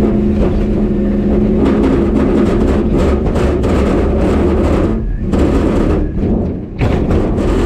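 Diesel stub truck's engine at full throttle, a steady loud engine note over heavy rushing noise from the sand and air, dipping briefly about five and again about six and a half seconds in.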